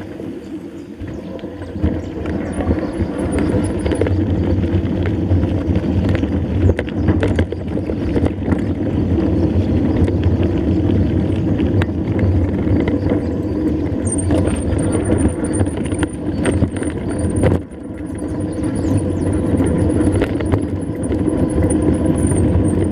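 Mountain bike being ridden: a steady rumble of wind on the microphone and rolling tyres, with scattered knocks and rattles from the bike. A thin, high, wavering whine joins a little past halfway.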